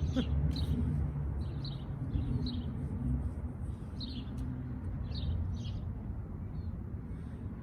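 Small songbirds chirping: short, high chirps every second or so, over a steady low background rumble.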